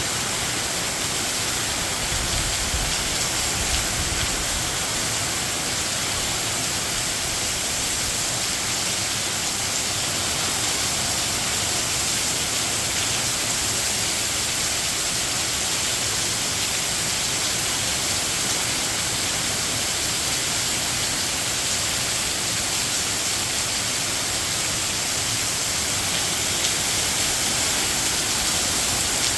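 Heavy rain falling steadily, a dense even hiss, with wind gusts rumbling low about two to five seconds in.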